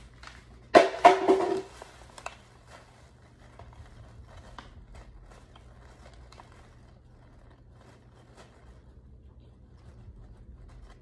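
Chewing of chalky white chunks, heard as faint, irregular crunching clicks. About a second in, a brief louder sound with a pitched ring stands out.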